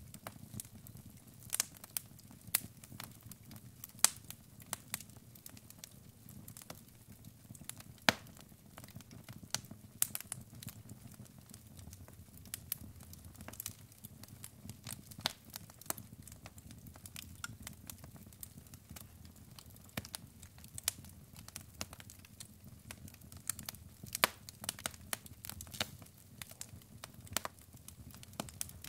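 Wood logs burning in a fireplace, crackling: irregular sharp pops and snaps, a few much louder than the rest, over a soft low rumble of the flames.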